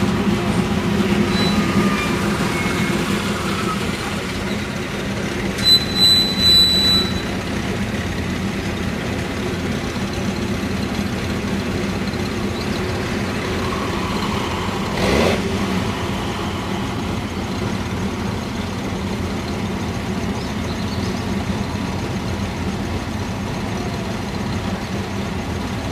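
A line of classic sports cars driving slowly past, engines running steadily at low speed. About six seconds in comes a cluster of three short loud blasts with a high tone, and about fifteen seconds in a brief swell as a car goes by close.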